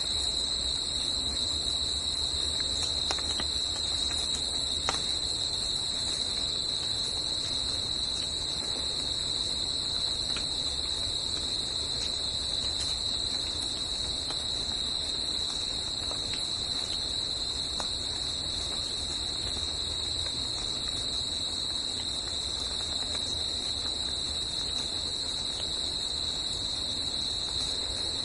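A steady insect chorus: one unbroken high-pitched trill with a fainter second band above it. Under it, a low distant rumble is stronger in the first half and fades, with a few faint ticks here and there.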